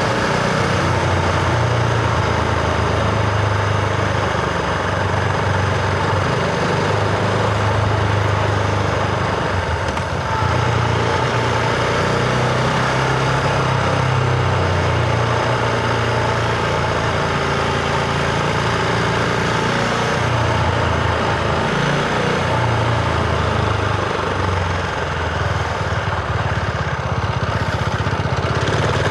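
Husqvarna Vitpilen 701's single-cylinder engine running while riding, its pitch shifting several times, with wind noise over it.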